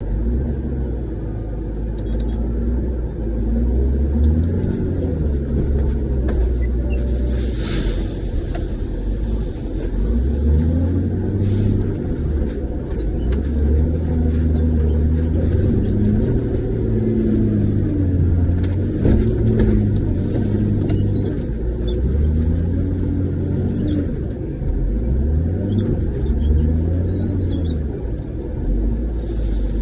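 Front-end loader's diesel engine heard from inside the cab, revving up and falling back again and again as the machine works, with scattered clunks and rattles.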